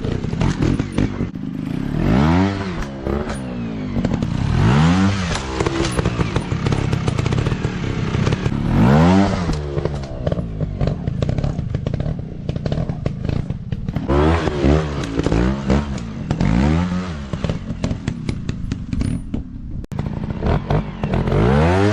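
Motocross dirt bike engines revving again and again, the pitch swinging up and down about seven times over a steady running drone.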